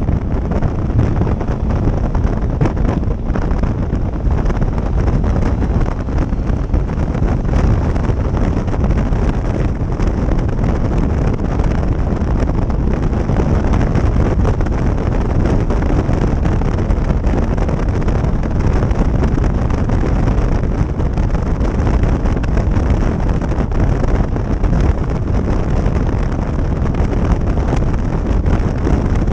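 Wind rushing over the microphone of a moving motorcycle, a loud, steady low rumble.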